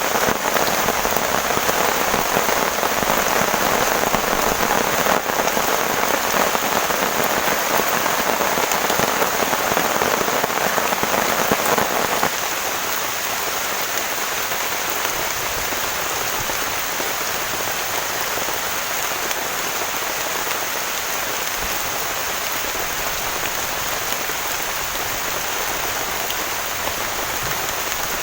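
Heavy rain falling in a dense, steady downpour. About twelve seconds in it drops suddenly to a softer, thinner hiss.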